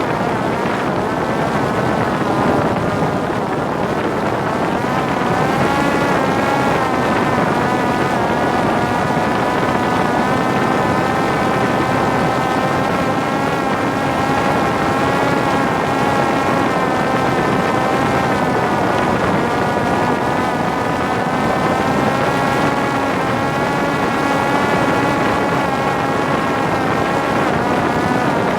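Parrot Disco fixed-wing drone's electric motor and pusher propeller running in flight: a steady whine that wavers slightly in pitch, over wind rushing across the microphone.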